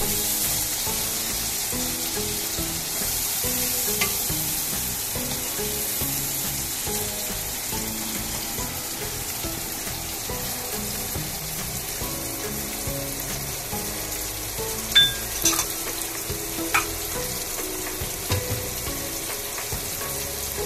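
Onion, garlic and tomato sizzling steadily in hot oil in a wok while a wooden spatula stirs them, with a few sharp clicks of the spatula against the pan near the end.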